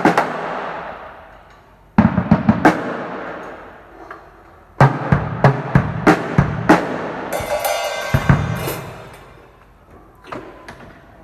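Drum kit played in short fill phrases, snare and bass drum hits in quick runs with pauses between them. The last run ends in a cymbal crash that rings out and fades.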